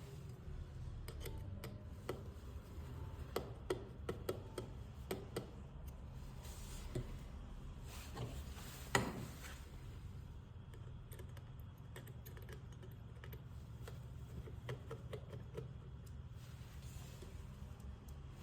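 Scattered light clicks and taps, like small tools or keys being handled at a workbench, with one louder knock about nine seconds in, over a steady low hum.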